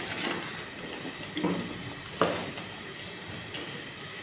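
Potato and tomato curry sizzling as it fries in a pot, stirred with a spatula that knocks against the pot twice, the second knock sharper.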